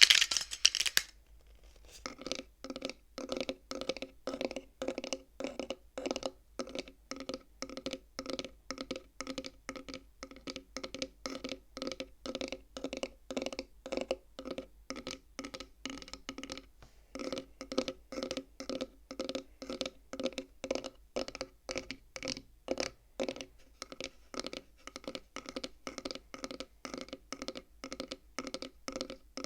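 Quick, steady tapping on the wooden frame of a bead abacus (counting frame), each tap ringing with the same hollow wooden tones, with a brief pause past the middle. It opens with a short, louder clatter of beads.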